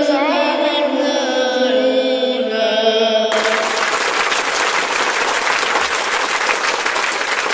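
Voices singing a chant-like melody that cuts off abruptly about three seconds in, followed by steady applause.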